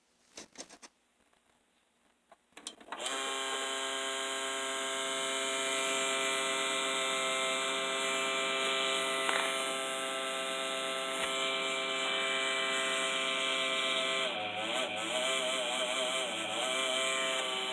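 Graphics card making a noise: after a few faint clicks, a steady, pitched buzz rich in overtones starts suddenly about three seconds in and holds, its pitch wavering for a couple of seconds near the end.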